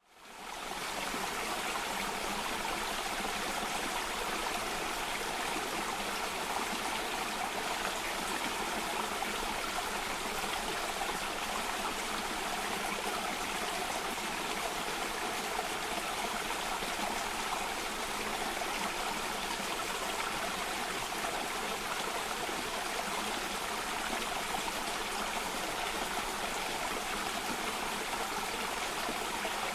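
Cascading stream of water running steadily, fading in during the first second.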